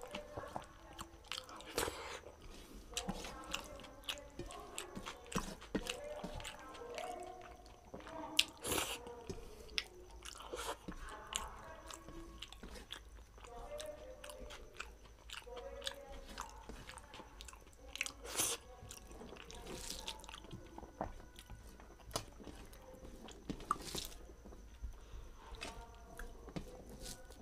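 Close-miked chewing and wet mouth sounds of a person eating rice with dal and bhorta by hand, with frequent sharp clicks. Fingers mix rice on a steel plate.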